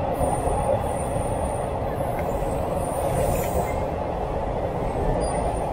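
Steady rumble inside a moving passenger train carriage, with faint, thin, high-pitched wheel squeals now and then.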